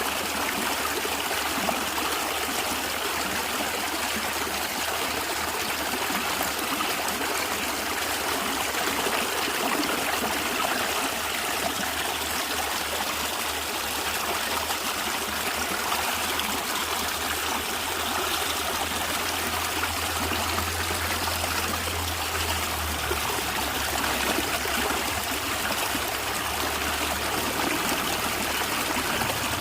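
A small stream gurgling and trickling, a steady, even water sound that holds throughout.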